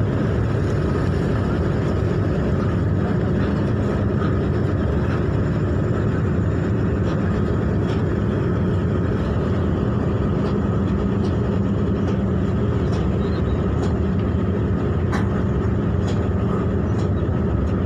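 Ship's engines running with a steady low rumble, unchanging throughout.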